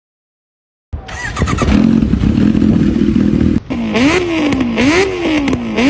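A person imitating a motorcycle with their voice. A steady buzzing drone starts about a second in and breaks off briefly. It then rises and falls in pitch three times, like a bike being revved.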